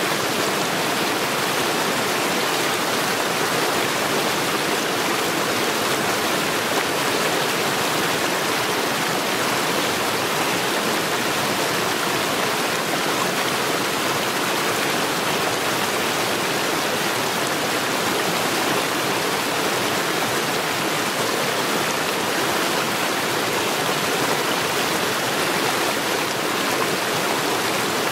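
Mountain stream rushing steadily over rocks, an even, constant splashing rush with no change.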